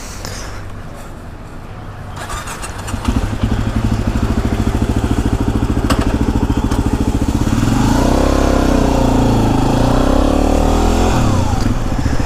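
Yamaha WR250R's single-cylinder engine running, heard from on the bike. It gets much louder about three seconds in, and its pitch rises and falls between about eight and eleven seconds in.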